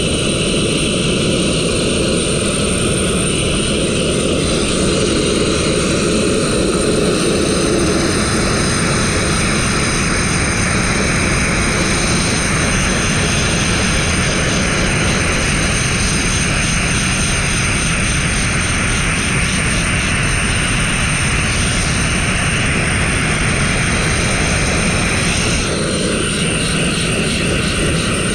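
Sandblaster nozzle spraying fine crushed-glass abrasive: a loud, steady rushing hiss whose tone shifts about eight seconds in and again near the end.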